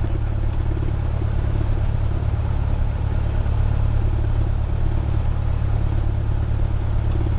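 Cessna 172R's four-cylinder Lycoming engine and propeller running at low taxi power, a steady low drone heard inside the cabin.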